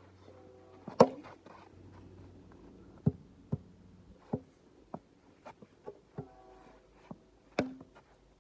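A series of irregular sharp knocks and thuds, loudest about a second in and again near the end, some with a brief ringing tone.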